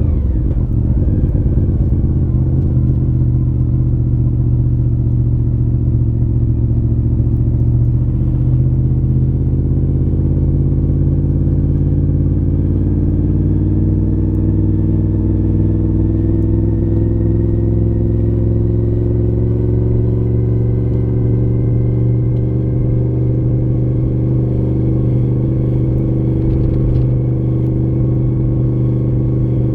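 Honda VFR750F RC36 V4 engine running through a modified stock muffler, under steady load. The note drops sharply at the start, then climbs slowly and evenly.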